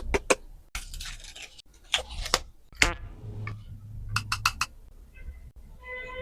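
Food-preparation handling sounds: a series of sharp clicks, taps and clinks with short bursts of rustling or scraping. A steady musical tone comes in near the end.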